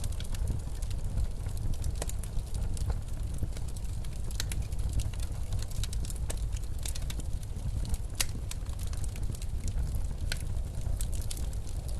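Wood fire in a fireplace crackling, with irregular sharp pops, over a steady deep rumble of blizzard wind.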